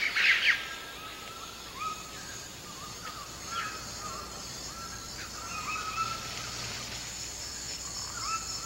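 Amazon rainforest ambience: a bird repeating short calls, each a quick rising note, about twice a second, over a steady high insect hum. A louder, harsher call sounds right at the start.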